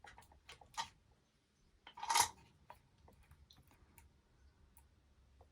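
Light clicks and rattles of thin nickel strips being handled and laid against 18650 cells in a plastic holder, with one louder, brief scrape about two seconds in.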